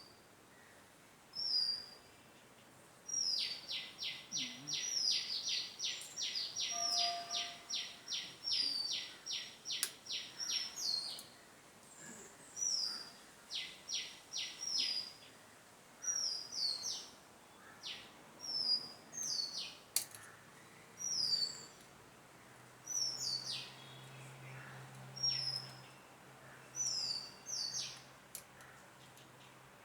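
A bird calling over and over: short high notes that fall in pitch, every second or two, with long runs of fast repeated chattering notes near the start and again midway. A few faint sharp clicks.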